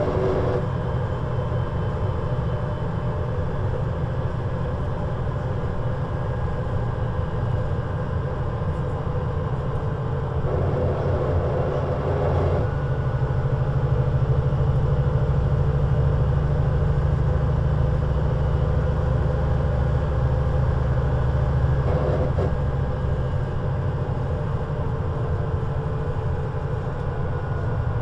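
Scania CN320UA city bus engine running steadily, its low rumble growing stronger about halfway through as it pulls harder, then easing back near the end.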